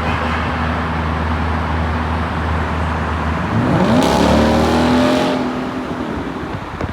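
Ford Mustang GT's 5.0-litre V8 running steadily at low revs. About three and a half seconds in it revs up with a rising pitch, is loudest for about a second, then eases off.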